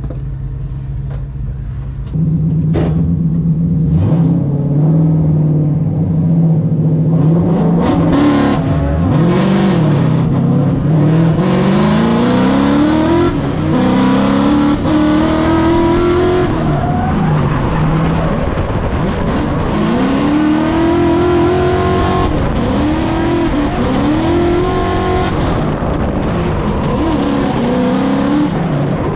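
Drift car engine at high revs, first holding a steady note, then revving up and down repeatedly through a drift run from about eight seconds in.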